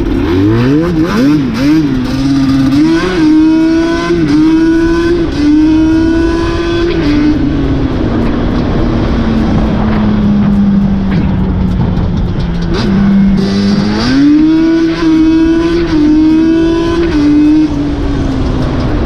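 Nissan 350Z's V6 engine and exhaust pulling under load: the revs climb at the start and hold high with small dips, settle into a lower drone that slowly falls off, then rise again about two-thirds of the way through.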